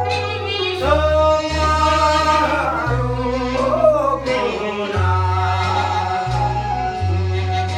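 A singer performs a Korean song with vibrato, held notes and a pitch swoop about four seconds in, over an accompaniment with a steady bass line that changes note about once a second.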